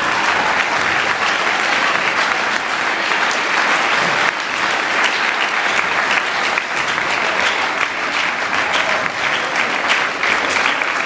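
Audience applause: many people clapping at an even level.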